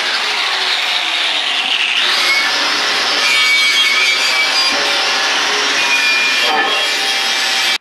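A power grinder working the edges of a 3/16-inch steel plate: a steady, harsh grinding with a faint whine.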